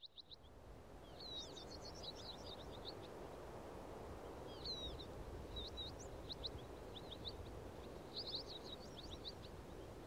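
Small birds chirping in quick runs of short, high notes, in three bouts, over a steady low rush of outdoor background noise that fades in at the start.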